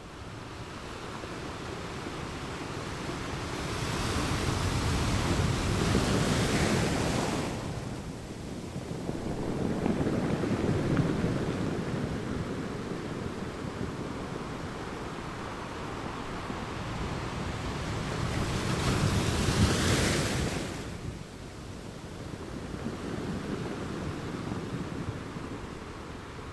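Atlantic surf breaking and washing up a sandy beach, swelling and fading, with the two loudest breaks about six and twenty seconds in, each dropping away fairly sharply, and a smaller one in between.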